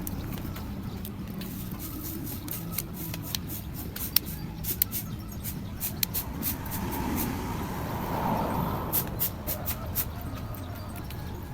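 Irregular sharp little clicks and taps, several a second and thickest in the middle, over a steady low background hum.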